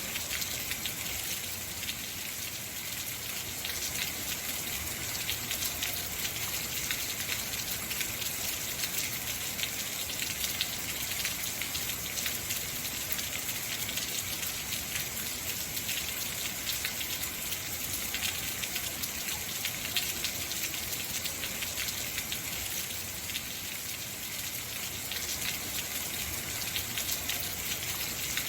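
Heavy, steady rain falling, a dense hiss full of fine drop ticks with no change in intensity.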